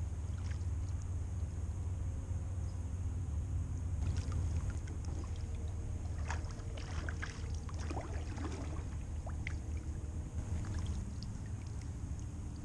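Water splashing and dripping around a kayak on the move, with a cluster of short splashes in the middle, over a steady low rumble.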